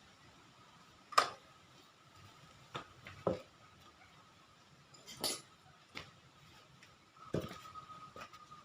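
A handful of sharp clinks and knocks at irregular intervals, the loudest about a second in, over a faint steady high hum.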